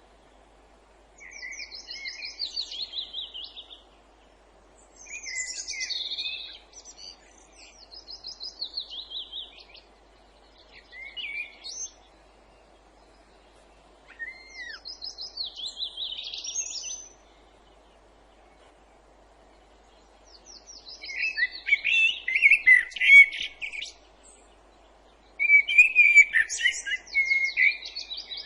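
Songbirds singing in woodland: a series of short trilled phrases, each falling in pitch, with pauses between them. The phrases grow louder and busier near the end. A faint steady background hiss lies underneath.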